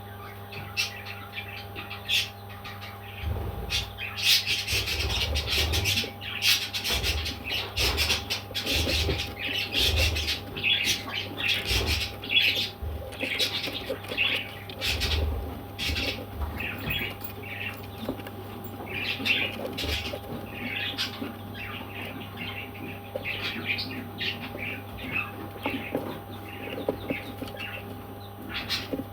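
Parrot squawking and chirping in a rapid string of short calls, loudest and busiest in the first half, then thinning to scattered chirps.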